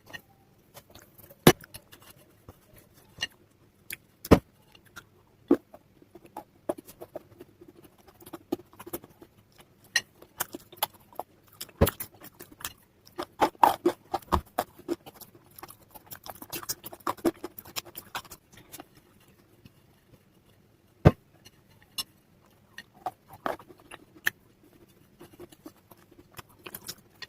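Slate pencil and chalk pieces crunching and snapping crisply, in irregular single cracks and short bursts of crunches.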